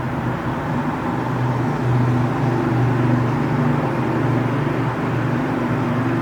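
Train station ambience: a steady low engine hum and rumble, swelling a little from about two seconds in.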